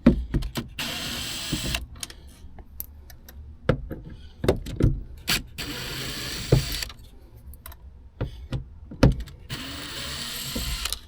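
Cordless drill-driver with a T20 bit spinning out self-tapping screws in three short runs, with clicks and knocks of the bit and the loosened screws between runs.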